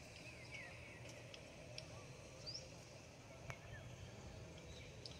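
Faint outdoor ambience with a few short, scattered bird chirps over a low steady background noise.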